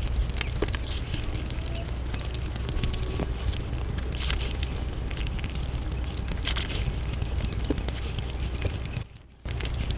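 Eating sounds of someone eating Indian sweets, sped up five times: a fast, dense run of small wet clicks and crackles from chewing and mouth noise over a low steady hum. The sound cuts out briefly about nine seconds in.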